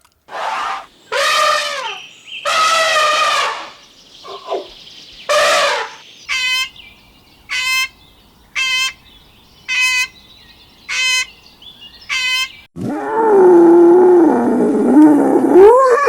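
A run of animal calls: a few drawn-out pitched cries, then six short high calls about a second apart, then a long, loud, low call that wavers in pitch near the end.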